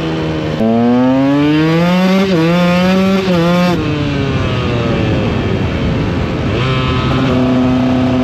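A KTM EXC 125 single-cylinder two-stroke motorcycle engine is heard under way. The revs climb hard for about three seconds with a couple of brief dips, drop off near four seconds, then pick up again and hold steady near the end.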